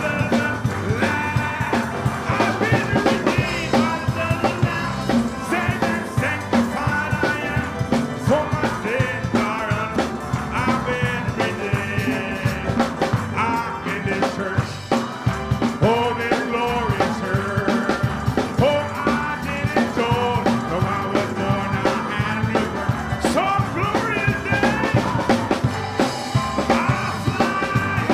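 Upbeat live praise music: a band with a drum-kit beat under a bending lead melody line.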